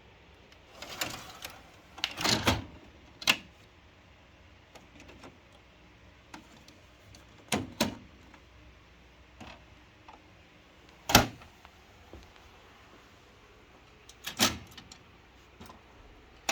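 Scattered clicks and knocks of a Ricoh IM C2010 copier's parts being handled and worked loose while its intermediate transfer belt unit is removed, at irregular intervals with the sharpest knock about eleven seconds in.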